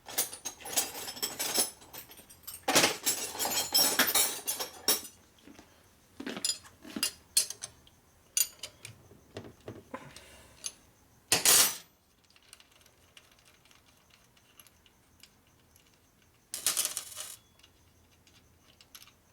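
Loose steel nuts and small hardware clinking and clattering as they are rummaged through and handled: a dense clatter for the first few seconds, then scattered clicks, with short louder clatters about eleven seconds in and near the end.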